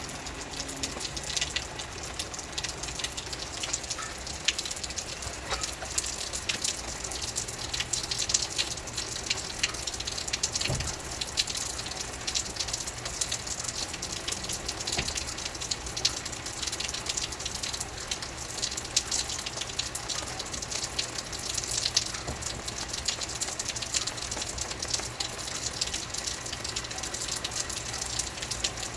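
Steady rain falling, with a constant hiss and many sharp individual drop hits.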